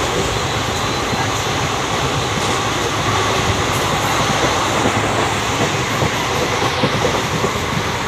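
Steady running noise of a moving express passenger train, heard from its open doorway.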